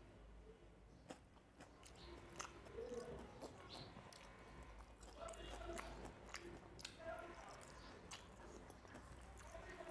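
Faint close-up eating sounds of rice and small-fish curry eaten by hand: chewing, wet mouth clicks and smacks. Soft squelches come from fingers mixing rice and gravy on a steel plate.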